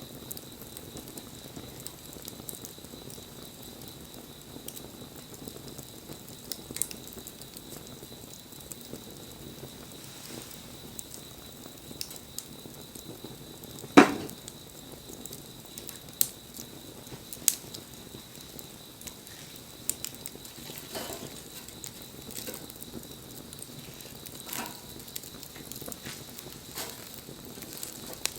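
Wood fire crackling quietly, with scattered sharp pops and one loud snap about halfway through.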